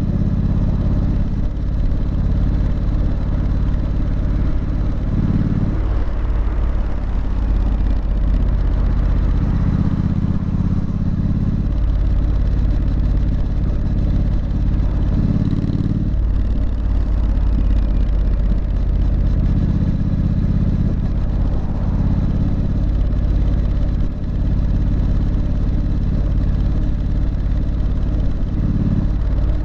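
Triumph Street Scrambler's 900 cc parallel-twin engine and exhaust running loud and steady. The deep exhaust note lets off and picks up again a few times, near 6, 12 and 16 seconds in.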